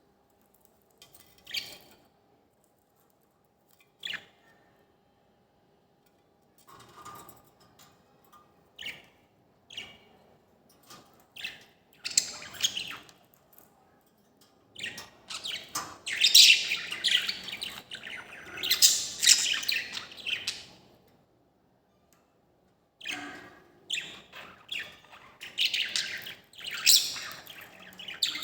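A bird calling: scattered single short chirps at first, then, from about twelve seconds in, long runs of loud, rapid chirping with a short break of a couple of seconds before it starts again.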